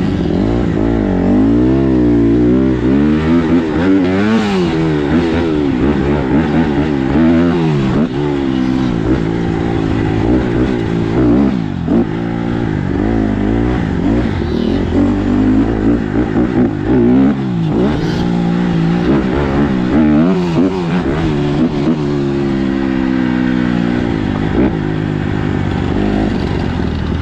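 Dirt bike engine being ridden, its pitch rising and falling over and over as the throttle opens and closes through the gears, over a steady low rumble.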